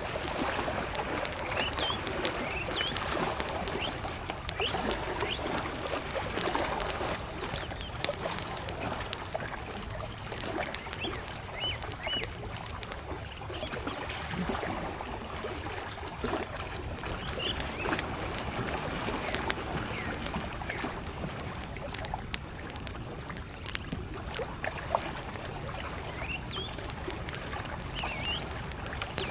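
Wood campfire crackling, with scattered sharp pops, over small lake waves lapping at the shore. Short high bird chirps come now and then.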